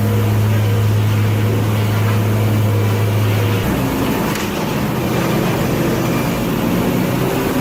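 Automated sawmill machinery running: a steady low electric hum over a constant mechanical roar. The hum stops about three and a half seconds in, and a different set of steady tones carries on.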